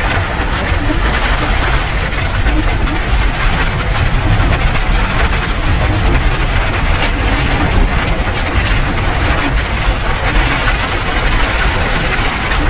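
Steady rain: a dense, even hiss of countless small drops, with a strong low rumble underneath.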